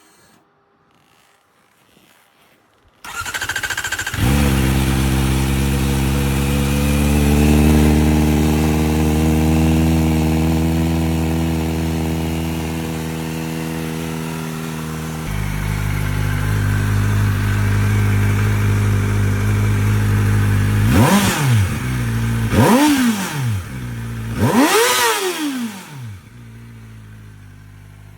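Kawasaki ZX-4R's 399 cc inline-four, breathing through an SC-Project 'Street Legal' aftermarket exhaust, cold-started: a brief crank about three seconds in, then it catches and idles steadily. Near the end it is blipped three times, each rev rising and falling sharply, the third held longest, before dropping back.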